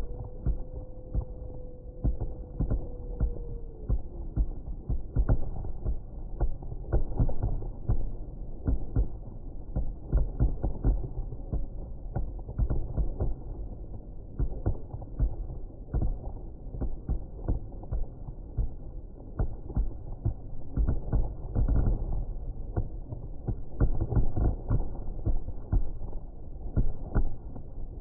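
Fireworks display: a continuous, irregular run of booms and pops, several a second, over a low rumble, heard dull with no treble. At the start a steady whistle holds, then drops in pitch and fades about four seconds in.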